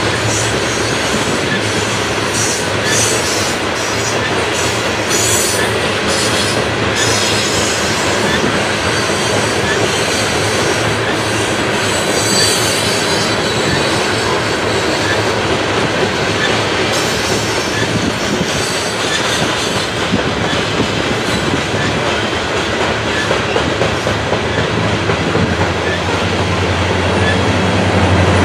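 CSX coal train's hopper cars rolling past, a steady rumble of wheels on rail with a brief high wheel squeal about twelve seconds in. Near the end, the engine hum of an approaching Virginia Railway Express diesel locomotive rises over it.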